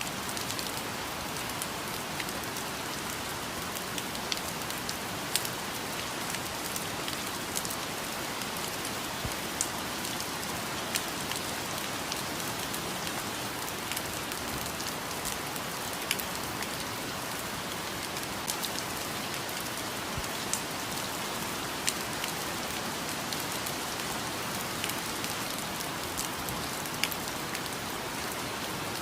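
Steady rainfall, a constant hiss with scattered sharper drops striking close by.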